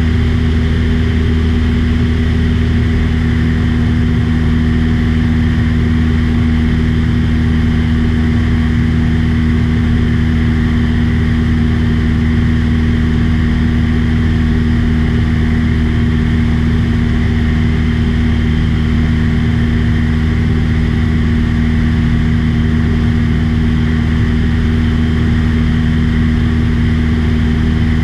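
Small aircraft's piston engine and propeller running steadily with a constant, unchanging drone.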